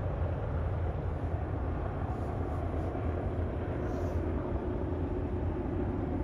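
Steady low rumble of an approaching diesel freight train.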